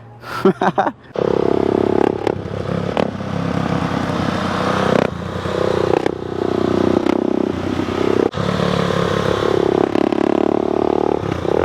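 Motorcycle engine running under way, starting about a second in; its pitch climbs and drops back in stages, with short dips between.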